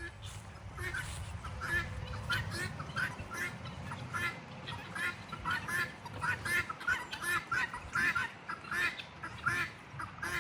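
A flock of guinea fowl calling in short, repeated chattering notes, several a second and overlapping, as they follow along.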